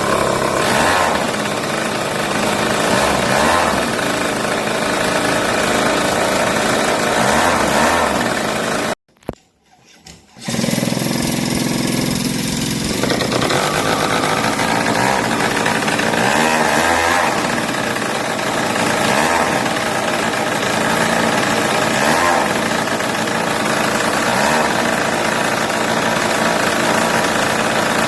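Small internal-combustion engine of a VTOL drone running loudly after a manual start, its note swelling and easing every few seconds. About nine seconds in it cuts off abruptly, with a click in the brief silence, then runs again a second or so later.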